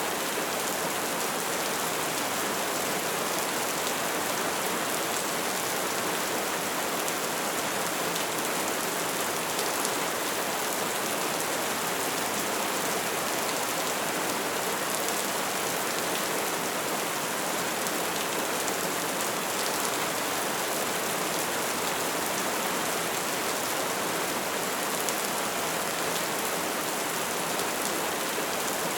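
Bonfire burning with a steady, dense crackle of small pops over the hiss of the flames.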